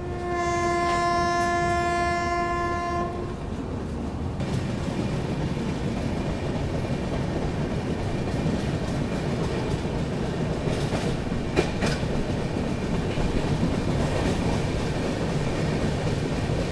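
A train horn sounds one long steady note for about three seconds. Then the train runs on at speed: a steady rumble with the clickety-clack of wheels over the rails, and a couple of sharp clanks near the middle.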